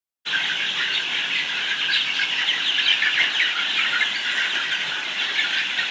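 Dense, continuous chorus of many young broiler chickens cheeping together in a poultry house.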